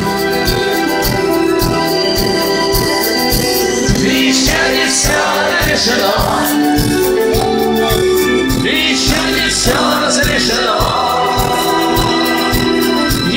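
Live rock band playing: a steady drumbeat about twice a second under held keyboard chords, with singing voices over it.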